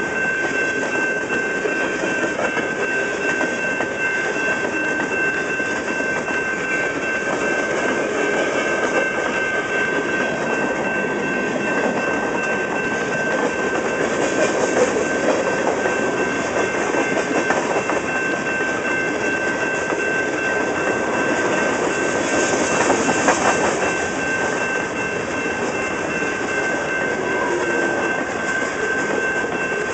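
Canadian National freight cars rolling past, a continuous rumble and clatter of steel wheels on rail. A steady high-pitched ring runs over it, and the noise swells briefly near the end.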